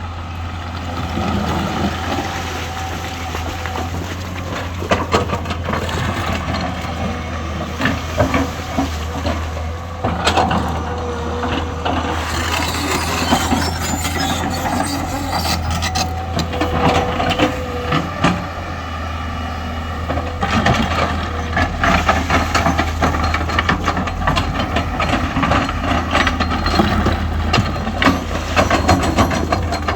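Diesel engine of a JCB 5CX backhoe loader running steadily as it loads mud, with repeated knocks and clatter coming more often in the second half.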